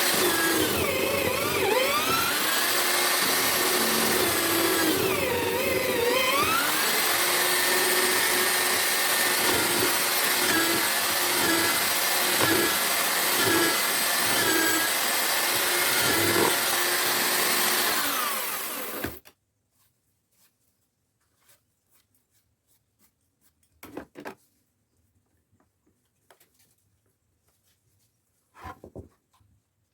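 Homemade drill-powered wood mortiser running and cutting. Its motor pitch dips twice as it bogs under load and recovers, then holds steady. The motor noise stops abruptly about two-thirds of the way through, leaving near silence with a few faint knocks.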